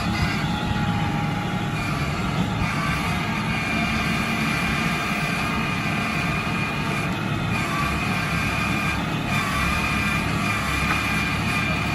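Eicher 650 tractor's diesel engine running steadily while working the backhoe loader, with a steady high whine over the engine drone that shifts a few times.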